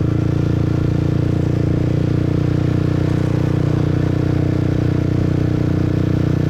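Motorbike engine running at a steady speed, an even hum that holds one pitch, heard from the rider's seat.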